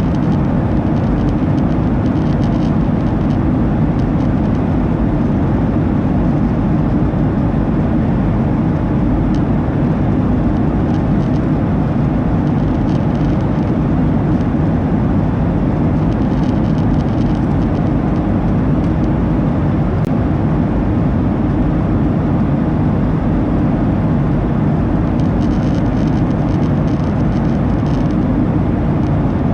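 Steady cabin noise inside a Boeing 737-800 airliner in flight: an even, loud rumble of jet engines and airflow, heaviest in the low range.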